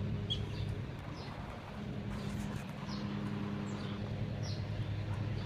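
Small birds chirping now and then, a few short high notes that drop in pitch, over a steady low mechanical hum.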